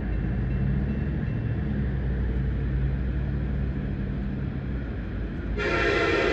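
Diesel locomotive engines of a passing train running with a low drone, then the locomotive's air horn starts a long blast about five and a half seconds in.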